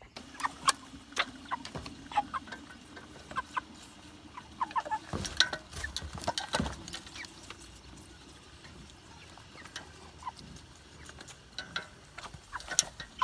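Meat chickens clucking with short, scattered calls, mixed with occasional sharp taps.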